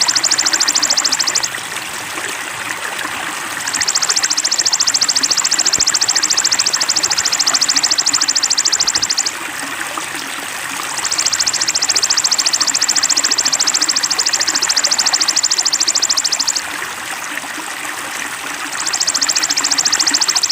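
A high, very rapid trilling call in long bouts of five or six seconds, broken by three pauses of about two seconds, over a steady sound of flowing water.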